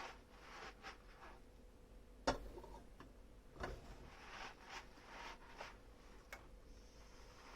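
Dishes being handled at the sink: soft rubbing and scattered light clinks and knocks, with one sharp clack a little over two seconds in.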